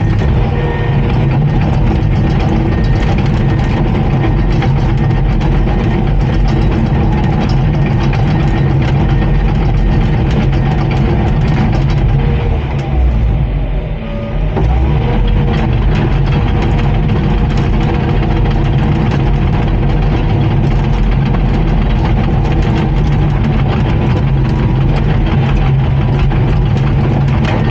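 Komatsu D39PX bulldozer's diesel engine running steadily, with a brief drop in level about halfway through.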